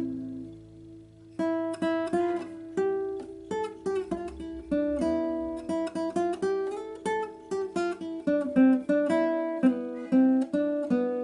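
Acoustic guitar music: single notes and strums plucked in a steady run after a short lull.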